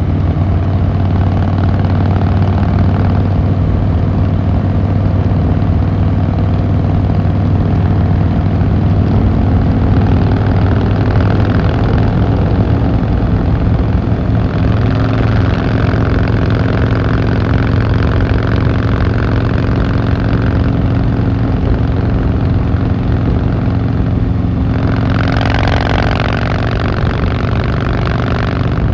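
Harley-Davidson Fat Boy Lo's V-twin engine and exhaust running steadily with a deep even hum, with a louder rush of noise near the end.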